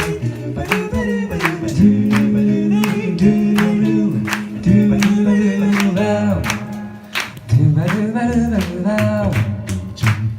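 Vocal group singing a song live in close harmony, with long held chords over a low bass line and a steady percussive beat.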